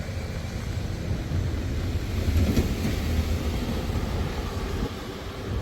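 Low rumble of a vehicle passing, swelling to its loudest about halfway through and then easing off.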